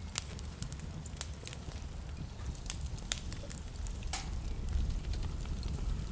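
Wood fire crackling in a fireplace: scattered sharp pops and snaps over a steady low rumble of the flames, with one louder pop about four seconds in.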